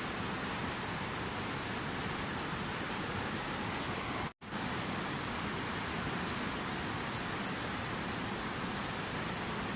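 Steady rushing water, an even hiss with no distinct splashes or drops. It cuts out completely for a split second a little over four seconds in, then resumes unchanged.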